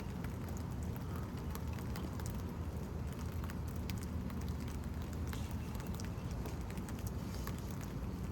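Steady rain falling, a constant hiss with many scattered, sharp drop ticks.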